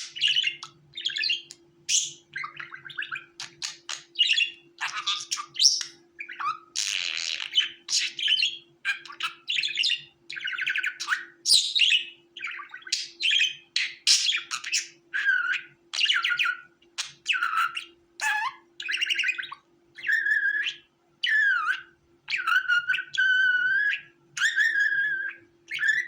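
Budgerigars chirping in a quick run of short, varied calls. From about 20 seconds in, these give way to longer, steadier whistle-like calls. A faint steady hum runs underneath.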